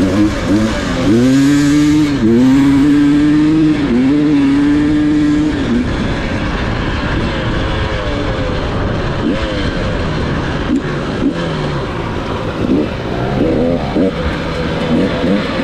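Dirt bike engines revving, their pitch rising and falling repeatedly. One engine is held at steady high revs for several seconds, dipping briefly twice, and later several engines rev over one another.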